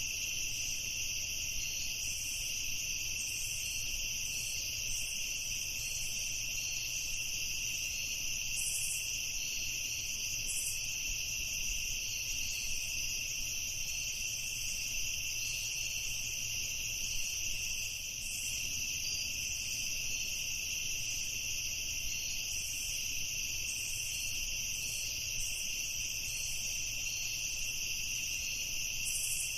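Night insects, crickets, chirping in a steady continuous chorus of high trills, with a faint low hum beneath.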